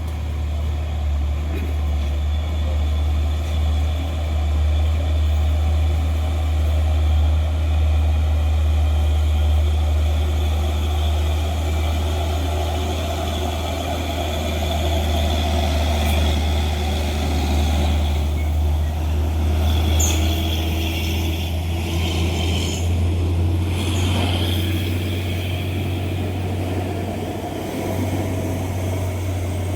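Heavy truck diesel engine running with a steady low drone while the truck labours slowly up a steep grade, with a few short sharp hissing clicks in the second half.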